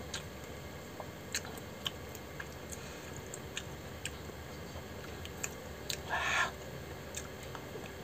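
A person eating spicy cheese instant fried noodles: quiet chewing with scattered small mouth clicks, and one brief louder mouth noise about six seconds in.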